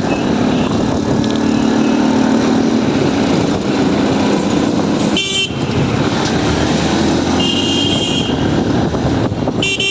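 Busy road traffic heard from a moving motorcycle: a steady rumble of engines and road noise, with vehicle horns honking three times, a short toot about five seconds in, a longer one around seven and a half seconds, and another short one at the end.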